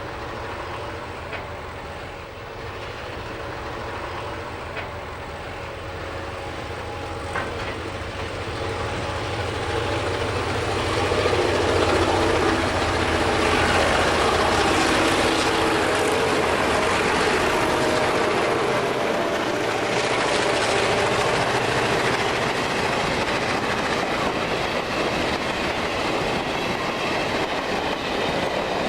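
Diesel locomotive hauling a freight train, its engine running with a steady low note. About a third of the way in the train grows much louder as it draws near, with the noise of wheels on rail.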